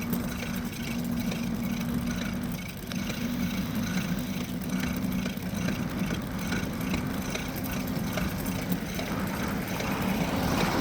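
Motorbike engine running at a steady speed while riding, with a constant hum and road noise.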